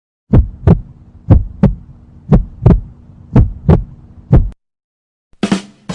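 Heartbeat sound effect: loud, low double thumps (lub-dub), about one beat a second, four and a half beats over a faint steady hum, then stopping. A short, different sound starts just before the end.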